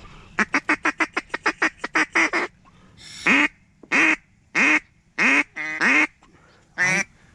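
Goose call blown hard, calling to a circling goose: a fast run of about a dozen short clucks, then five or six longer, louder honks about two-thirds of a second apart.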